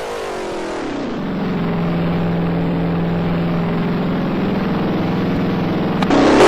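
Chevrolet Corvette engine and exhaust running: the note climbs for about a second, then holds a steady pitch for several seconds.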